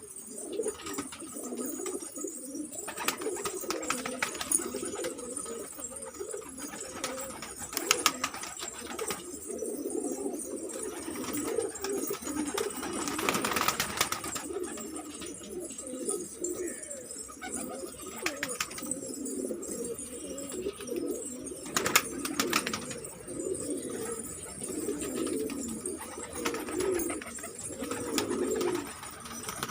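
Pigeons cooing continuously in low, rolling coos, with a few sharp clicks now and then.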